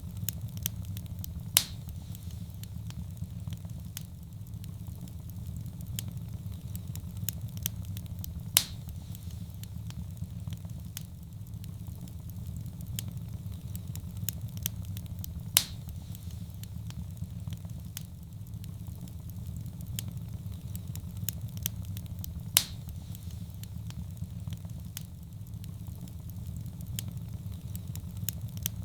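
Wood fire burning in a fireplace: a steady low roar with small crackles throughout. A sharp louder pop comes at an even interval of about seven seconds, four times.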